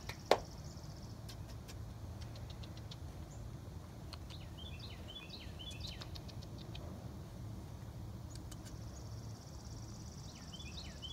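Outdoor ambience: a steady low background rumble, with a bird singing short chirping phrases twice, about four seconds in and again near the end. A single sharp click just after the start.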